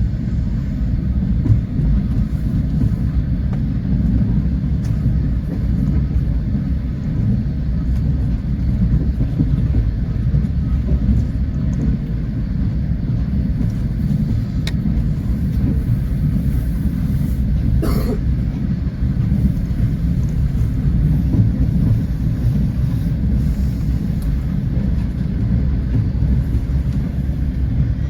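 Passenger train running along the track: a steady low rumble of wheels on rails, with one sharp click about eighteen seconds in.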